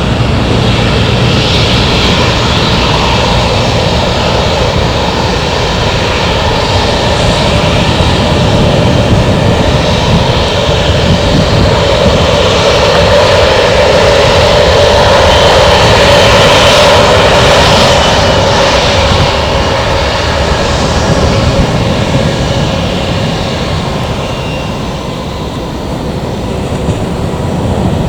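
Airbus A321 jet airliner's engines, a loud continuous rush that swells to a peak about halfway through and then fades.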